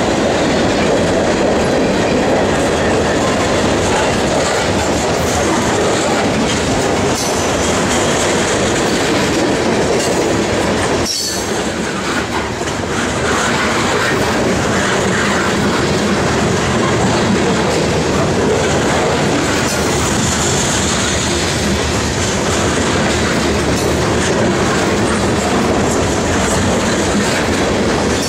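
Freight train cars rolling past, their wheels clacking over the rail joints, with some high wheel squeal.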